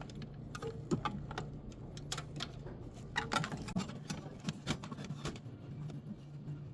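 Irregular light clicks and taps from handling a dryer's control board and panel after its wiring harness has been reconnected, over a steady low hum.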